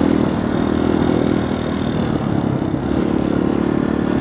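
Dirt bike engine running steadily under throttle while being ridden over a bumpy, sandy trail, easing off slightly for a moment about two seconds in.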